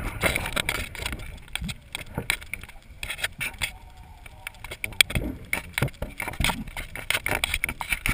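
Wind buffeting a GoPro's microphone while the camera is thrown about on the end of a kite line, with irregular knocks and rattles and one sharper knock about five seconds in.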